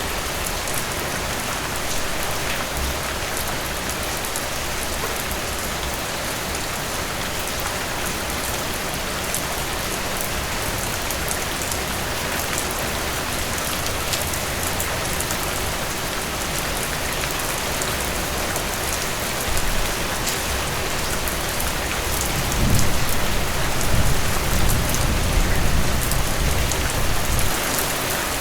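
Heavy rain falling steadily, with a low rumble of distant thunder swelling about three quarters of the way through.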